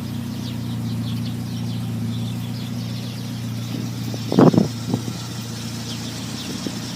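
Car engine idling steadily, a low even hum, with one brief louder noise about four and a half seconds in.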